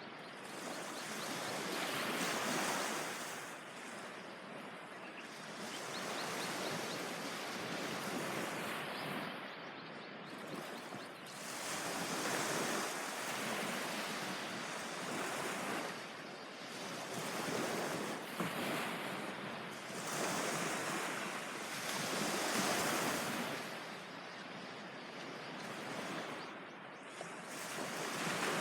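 Ocean waves breaking on a beach, the wash swelling and fading every few seconds.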